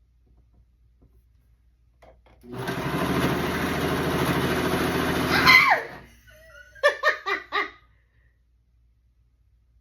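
Electric sewing machine running at speed for about three seconds, its motor buzzing steadily, then winding down and stopping. A few short bursts of laughter follow about a second later.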